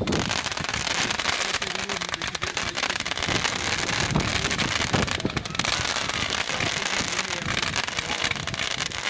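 Fireworks going off in a display: a dense, continuous stream of small pops and cracks with no break.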